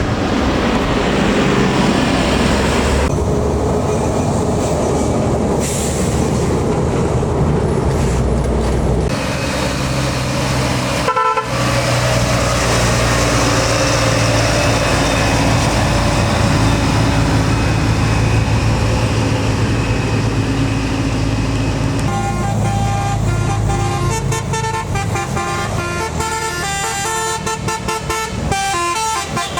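Heavy diesel truck engine labouring up a steep grade with a deep steady drone; about two-thirds in, a vehicle horn starts sounding a quick run of changing notes.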